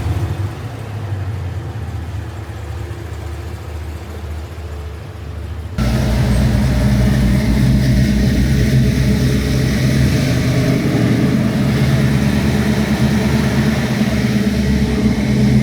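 Supercharged 6.2-liter V8 of a Cadillac CT5 Blackwing, breathing through Kooks long-tube headers and an X-pipe, running at a steady speed. About six seconds in, it suddenly becomes much louder and deeper and holds that steady drone.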